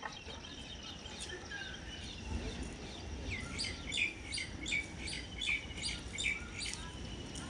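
A small bird chirping: a series of short, high, repeated notes at about two to three a second, starting about three seconds in, over a faint low rumble.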